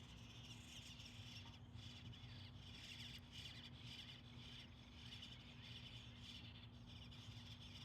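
Faint high bird chirping, many small chirps over a steady low hum.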